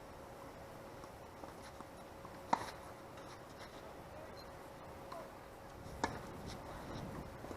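Two sharp pops of a tennis ball off a racket or the court, about three and a half seconds apart, the first the loudest, with a few faint ticks and a low wind rumble between.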